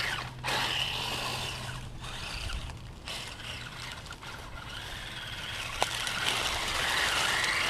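Electric motor and gears of an RC rock crawler whining as it works over rocks, the pitch rising and falling with the throttle, with one sharp click about six seconds in.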